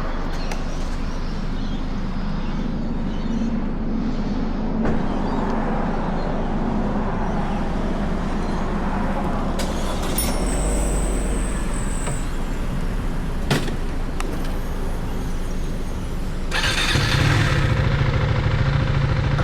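Motorcycle riding in traffic: its engine running steadily under wind noise, with other road vehicles around. A brief high whine about ten seconds in, and the engine gets louder near the end.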